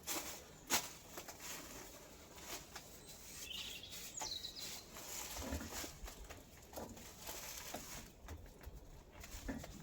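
Scattered light clicks and knocks of parts and tools being handled on a workbench, the sharpest just under a second in, with a short high rising chirp about four seconds in.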